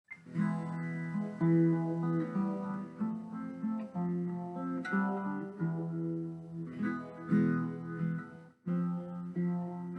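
Solo guitar playing the instrumental intro of a song, picking and strumming chords, with a short break about eight and a half seconds in.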